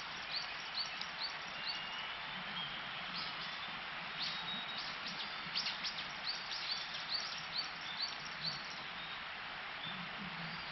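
Small birds giving many short, high chirps in quick succession, most densely in the middle, over a steady outdoor hiss.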